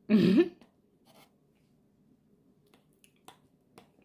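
A short hummed vocal sound right at the start, then a few faint, scattered clicks, typical of mouth sounds while chewing food.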